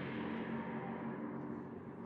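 GT3 race car fading away after passing, its engine note held at a steady pitch as it dies down.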